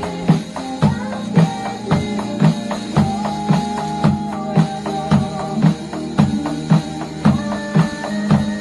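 A drum kit played along with a pop-rock recording with guitar: a steady beat with strong hits about twice a second over held chords.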